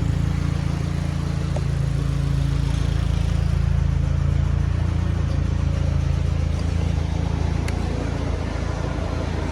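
Hyundai Veloster N's freshly replaced 2.0-litre turbo four-cylinder engine running steadily with a low, even hum.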